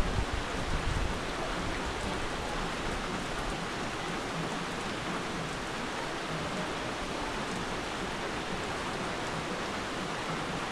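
Tropical-storm rain falling heavily and steadily as an even hiss, with a gust of wind buffeting the microphone in the first second.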